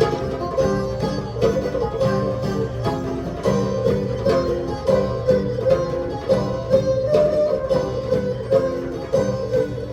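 Live world-music ensemble playing a Persian-style instrumental: a held, bowed melody line, likely erhu, over plucked-string notes from tar, guzheng and guitar, with a tonbak hand drum keeping a steady beat.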